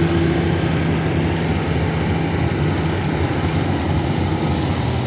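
Gasoline pickup truck engine running hard under load as it pulls the weight sled, a steady, loud engine noise.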